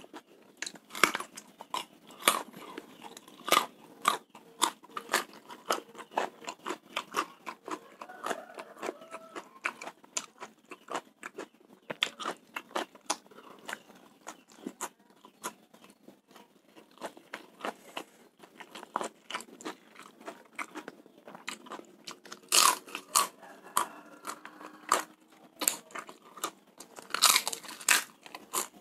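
Eating sounds: crisp crunching bites and chewing of raw carrot and fried rice with crackers. A steady run of crunches, with louder clusters about three-quarters of the way through and again near the end.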